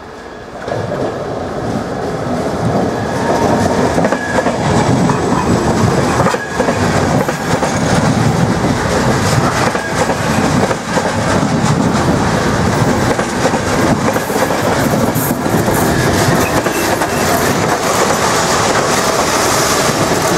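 A Czech Railways push-pull passenger train, a driving trailer with coaches and a class 242 electric locomotive pushing at the rear, passing close by as it arrives. Its wheels clatter over rail joints and points. The sound swells about a second in and then stays loud.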